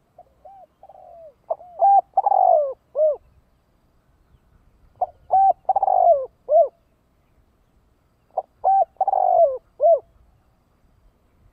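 Spotted dove cooing: three repeated phrases, each a few short notes, a long falling coo and a short final note. This is the male's advertising call, used here as a decoy to draw in wild doves.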